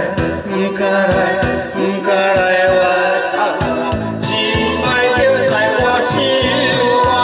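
Several voices singing together over a karaoke backing track with a steady beat.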